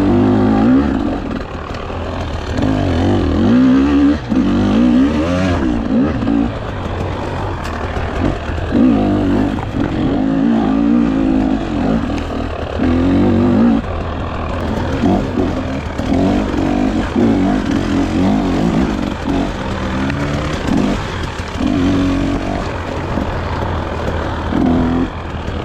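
Dirt bike engine on a trail ride, the throttle opening and closing in repeated bursts so that the pitch rises and falls every second or two.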